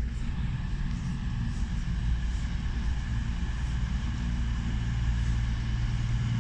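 CrossCountry Voyager diesel-electric multiple unit, its underfloor diesel engines running with a steady low rumble and faint high steady tones above it.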